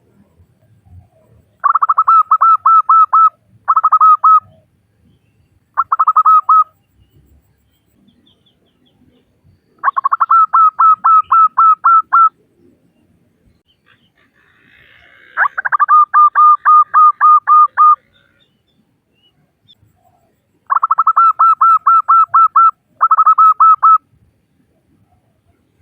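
Female zebra dove (perkutut) calling: rapid runs of short, clipped notes at one pitch, about six a second, in seven bursts of one to three seconds with pauses between. It is the call a hen uses to draw males to sing.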